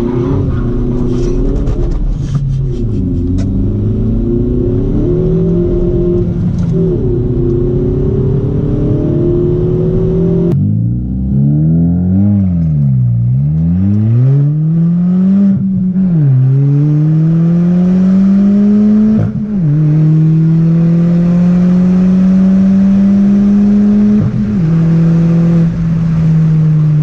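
2020 Kia Forte GT's turbocharged 1.6-litre four-cylinder running with its exhaust removed after the catalytic converter, loud and raw. The engine revs down and back up, then climbs in pitch and drops back at several upshifts in the second half as the car accelerates.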